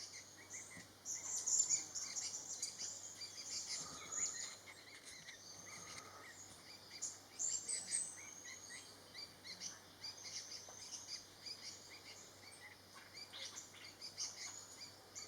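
Small forest birds chirping, a series of short high calls and brief trills from more than one bird, loudest about a second or two in.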